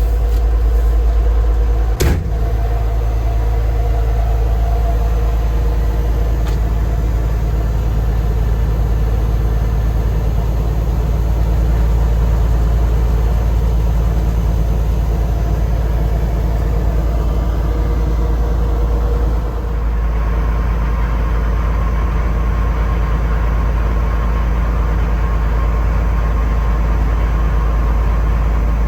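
A vehicle engine running steadily with a deep, even rumble, with one sharp knock about two seconds in.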